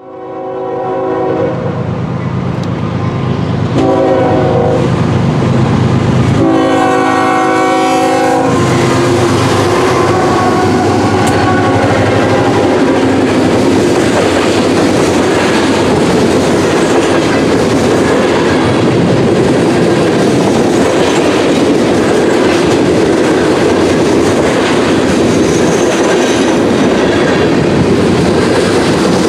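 CSX freight train's air horn sounding three blasts at a grade crossing, the last the longest. Then loaded hopper and gondola cars roll past with a steady rumble and clickety-clack of wheels on the rails.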